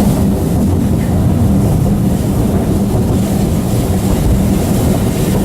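Steady low rumble of a narrow-gauge heritage train in motion: carriage wheels running on the track, heard from on board.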